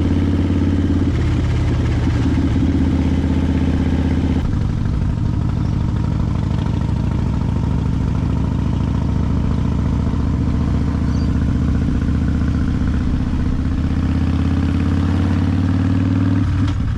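Harley-Davidson Fat Bob's V-twin engine running steadily on the move, its note shifting abruptly about a second in, again around four seconds, and near the end.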